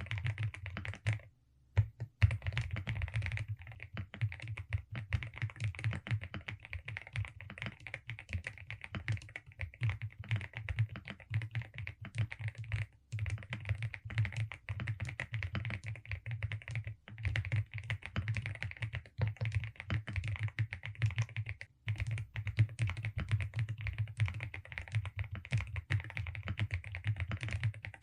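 Continuous fast typing on a Velocifire RX870 mechanical keyboard with DSA keycaps, a dense run of keystrokes with a short pause about a second and a half in.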